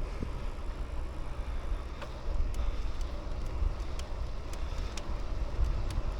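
Bicycle riding along a paved road: steady low wind rumble on the microphone with tyre and road noise, and from about halfway a light tick about twice a second.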